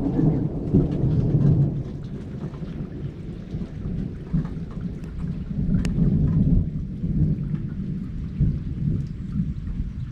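Thunder rumbling long and low, swelling in the first couple of seconds and again around the middle, over steady rain with scattered drops ticking.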